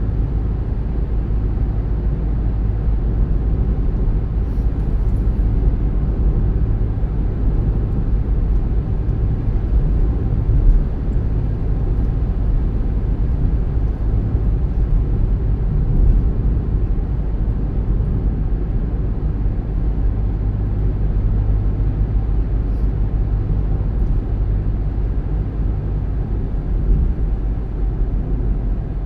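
Car driving at a steady speed: a continuous low rumble of road and engine noise.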